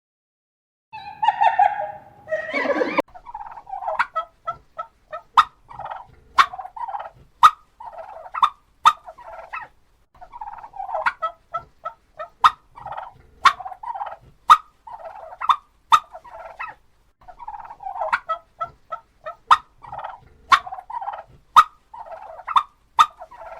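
Domestic poultry calling: after a single call near the start, a long run of short, quickly repeated calls carries on, broken by sharp clicks about once a second.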